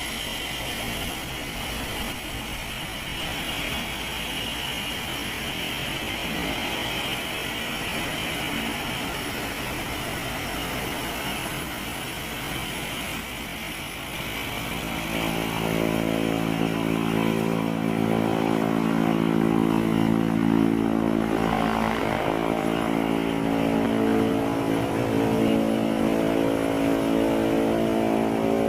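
Engine noise: a steady mechanical rumble and hiss, then from about halfway a louder, steady, droning engine tone that holds to the end.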